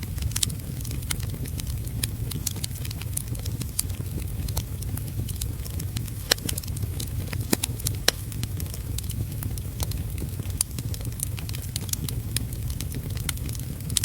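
Wood fire crackling in a fireplace, with frequent irregular sharp pops. Underneath runs a steady low rumble and the even hiss of heavy rain.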